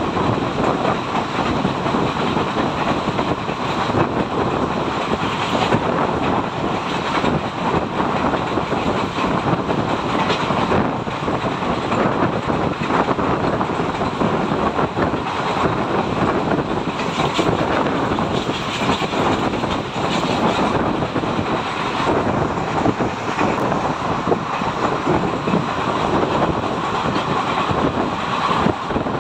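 Indian Railways express passenger coach running at speed, heard at an open window: a steady rumble and clatter of wheels over the rails.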